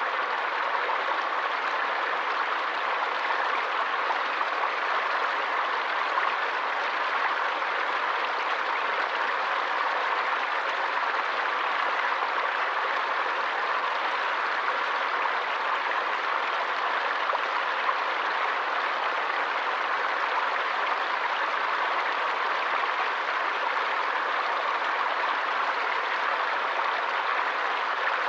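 Forest stream rushing steadily over rocks, an even hiss of water with no breaks.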